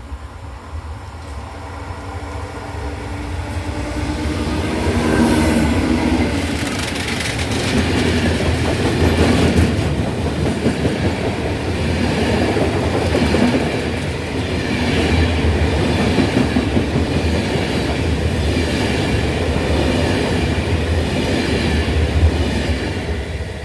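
A train passing close by on the line. Its sound builds over the first five seconds, then the wheels clatter over the rail joints with a steady low rumble to the end.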